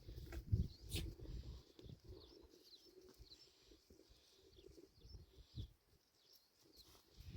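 Birds chirping in short, high calls throughout, with a few dull low thumps in the first second or so.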